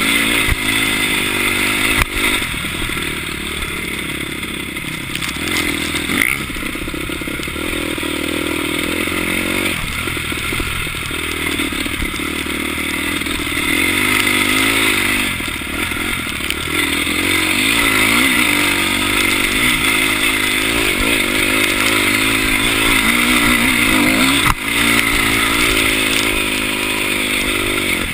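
Dirt bike engine running under load on a trail, its pitch rising and falling constantly with throttle and gear changes, with a few sharp knocks from the bike over rough ground.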